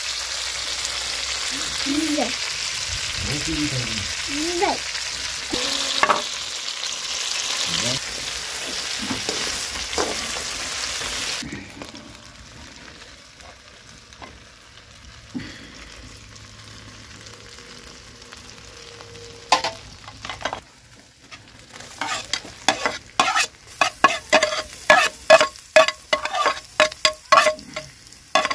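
Chicken pieces sizzling loudly in hot oil in a pot over a wood fire. About eleven seconds in the sizzle cuts off sharply to quiet frying. Near the end a metal spoon scrapes and clinks against the metal pot in a quick run of ringing strokes.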